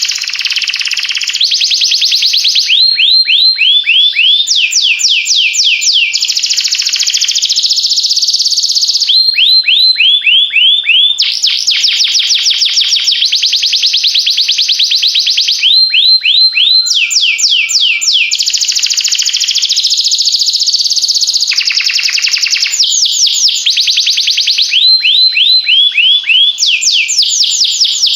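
Domestic canary singing a continuous, loud song of fast trills. Each phrase is a run of rapidly repeated high notes, and the song switches to a new phrase, higher or lower and faster or slower, every second or two.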